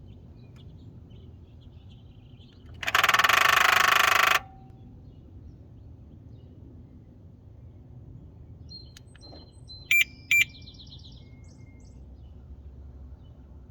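Loud rattling buzz from the engine of a 2012 BMW X5 xDrive35i 3.0. It lasts about a second and a half and cuts off abruptly. It is an unexplained rattle, which the owner finds comes more often after the key fob locks or unlocks the car. Later come two short sharp chirps about half a second apart, with faint bird chirps.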